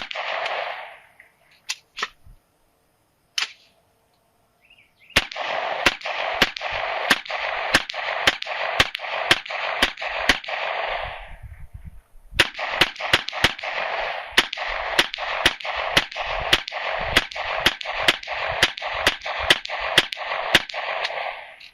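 Rapid semi-automatic fire from a 9mm AR-pattern gun with a 10.5-inch upper, shooting 115-grain full-metal-jacket rounds. A few single shots come first, then two long strings at about three shots a second with a short pause between them, emptying a 30-round magazine in saturation fire.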